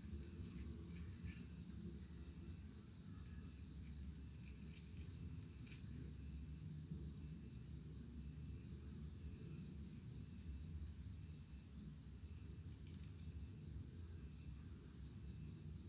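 Cricket chirping without a break: a loud, shrill, high-pitched trill that pulses rapidly and evenly.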